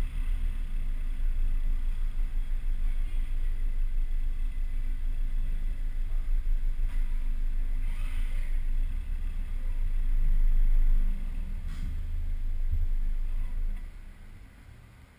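Volvo C30 T5's turbocharged five-cylinder engine running through its stock exhaust: a steady low rumble that swells slightly late on, then drops away sharply near the end.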